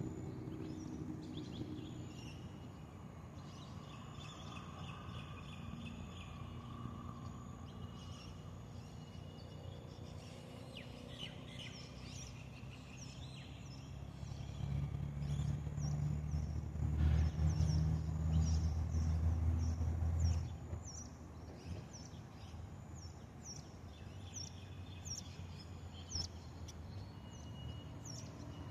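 Small birds chirping over a lake, many short, quick calls, denser in the second half. Under them runs a low background rumble that swells loudest for several seconds in the middle, then drops away suddenly.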